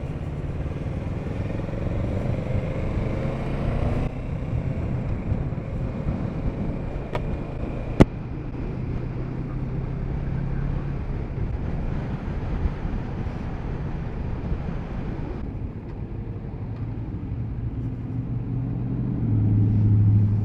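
Kawasaki Z650RS's 649 cc parallel-twin engine running under way, with rushing wind noise. There is a single sharp click about eight seconds in, and the engine note grows louder near the end.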